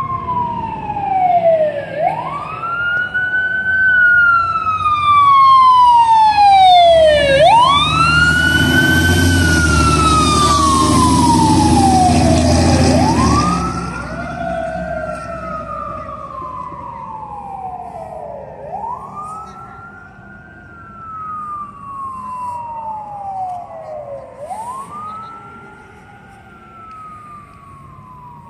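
Fire engine siren wailing in long cycles, each rising quickly and falling slowly, about every five and a half seconds. The truck's engine rumble is loudest around the middle as it passes, then siren and engine fade into the distance.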